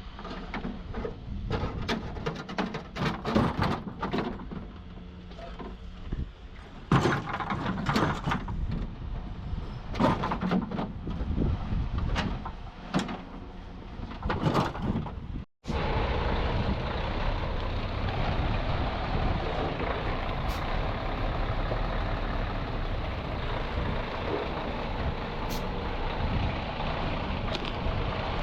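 Irregular metal knocks and clanks of workshop repair work, then, after a break about halfway through, a truck engine running steadily.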